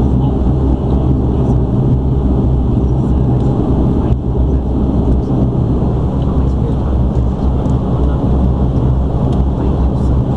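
Airliner engines running, heard from inside the passenger cabin as a steady low drone.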